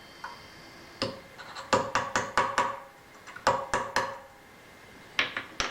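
Small steel hand tools and parts clinking and tapping against metal: a string of sharp, short metallic clicks in small clusters.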